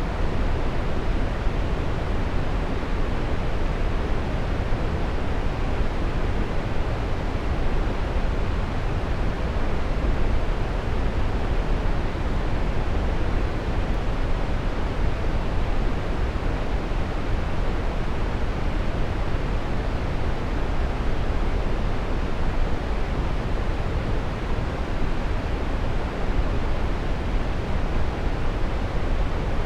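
Waterfall: a steady, unbroken rush of falling water, deepest at the low end.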